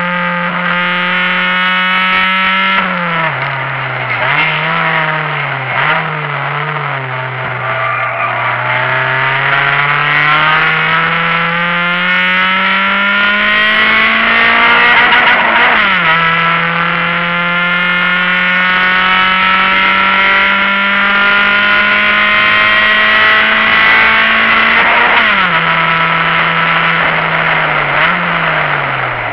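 Honda Civic hatchback's four-cylinder engine at hard throttle, heard from inside the cabin during a timed run. The revs hold high, dip and recover with brief lifts, climb steadily through one gear to a sudden drop at an upshift about halfway through, then hold high again before falling off near the end.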